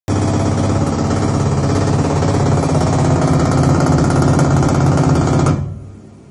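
Loud, steady mechanical buzzing rattle with a deep hum, which cuts off about five and a half seconds in.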